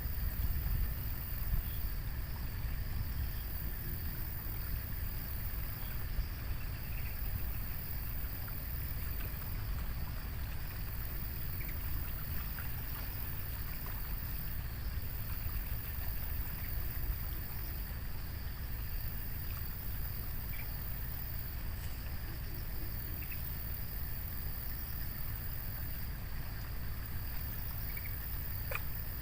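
Riverbank ambience: a steady low rumble of moving water or wind under a steady high insect hiss, with a few faint ticks.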